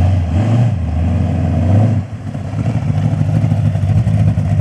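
A vehicle engine running loud and steady, then dropping back about two seconds in to a rapid, uneven pulsing idle.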